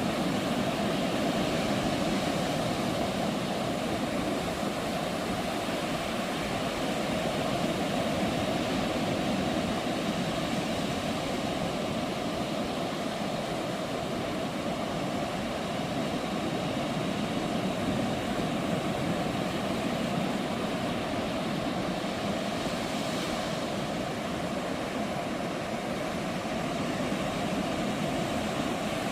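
Ocean surf breaking on a beach, a steady continuous roar with no distinct breaks between waves.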